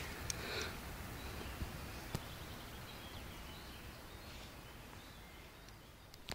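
Faint outdoor background noise with a few weak, distant bird chirps and an odd soft click, the whole fading away toward the end.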